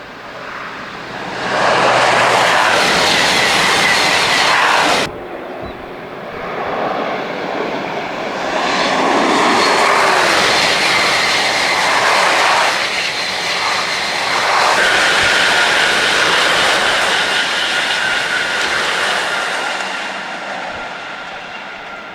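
TGV high-speed trains passing at full speed: a loud rushing noise that builds quickly and cuts off suddenly about five seconds in, then a second long pass that builds, holds with a steady whine, and fades away near the end.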